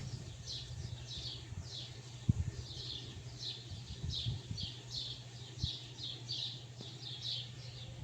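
A small bird chirping over and over, short falling high notes about two to three a second, over a low steady hum with a few soft bumps.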